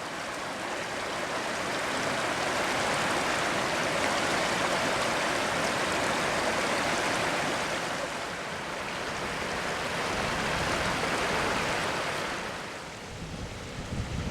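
River water flowing steadily, a continuous rushing hiss. It drops away near the end as a low rumble comes in.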